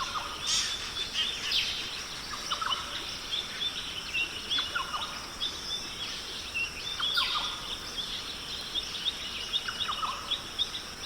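Tropical forest ambience: many birds calling with short chirps, trills and quick sweeping whistles throughout, over a steady high-pitched insect drone.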